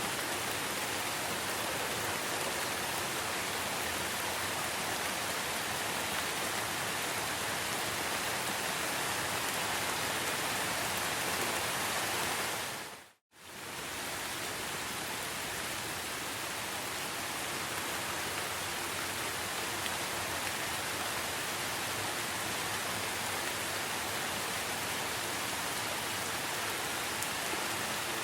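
Steady rain falling in a forest, an even hiss of drops. About halfway through it briefly fades out to silence and straight back in.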